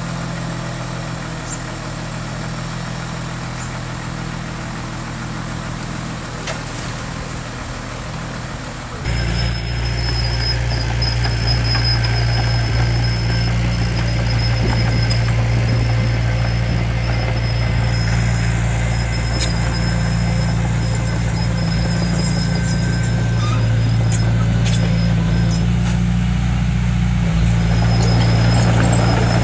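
Diesel engine of heavy earthmoving machinery running steadily; about nine seconds in it suddenly becomes louder and deeper, and a faint high squeal then comes and goes over it.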